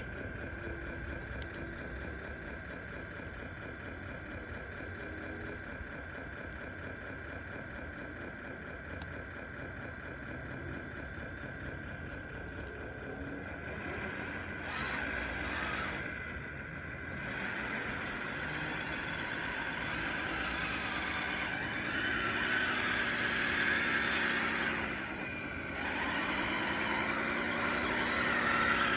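Radio-controlled DXR2 bulldozer on wide tracks, running and pushing with a steady mechanical whine. It grows louder over the second half, and in the last several seconds its pitch dips and rises again and again as the drive loads up and eases off.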